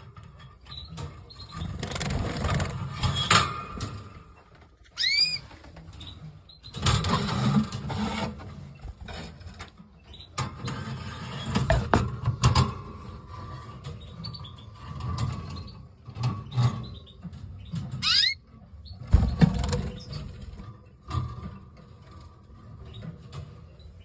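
Canaries moving about, with intermittent rustling and bumping and two short upward-sweeping call notes.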